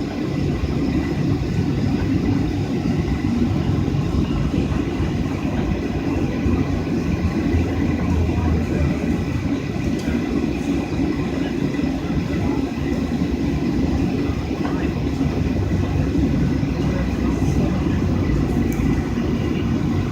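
Airliner cabin noise inside a Boeing 737 taxiing: the jet engines' steady low hum and airframe noise, with a few faint steady tones above it.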